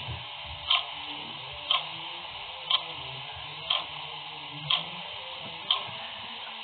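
Clock ticking steadily, about one tick a second, over a steady hiss.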